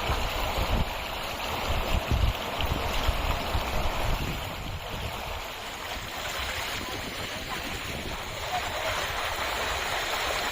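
Steady rushing of flowing water, with wind buffeting the microphone in low thumps during the first few seconds.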